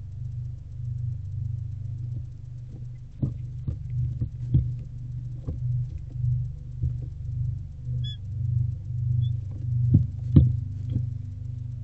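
Irregular knocks and scrapes of barn owlets moving and handling prey on the wooden nest-box floor, over a low hum that swells and fades. A brief high chirp sounds about two-thirds of the way through.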